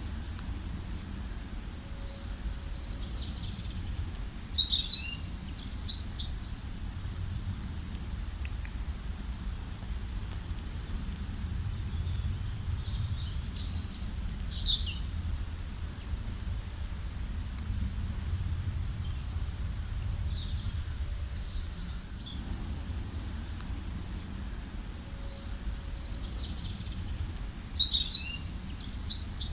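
Songbirds singing in the open, with a loud burst of high chirping phrases about every seven to eight seconds and fainter calls in between, over a low steady rumble.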